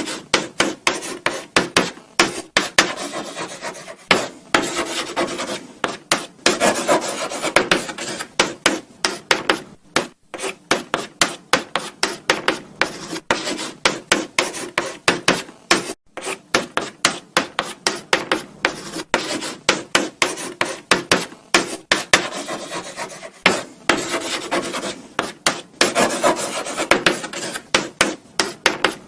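Chalk writing on a blackboard: quick, irregular scratching strokes with brief pauses between words, and a light tap now and then as the chalk meets the board.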